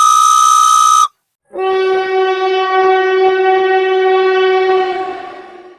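Train horn sounding: a high, steady blast that cuts off about a second in, then, after a short gap, a longer and lower blast that fades away near the end, with faint regular clicks beneath it.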